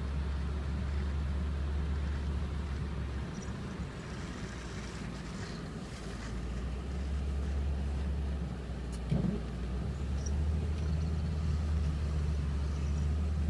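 A car driving, its steady low engine and road rumble rising and falling a little, with a brief knock about nine seconds in.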